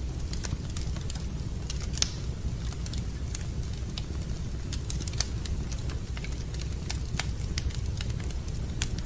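Wood fire crackling in a fireplace: irregular sharp pops and snaps over a steady low rumble, with the loudest pops about two and five seconds in.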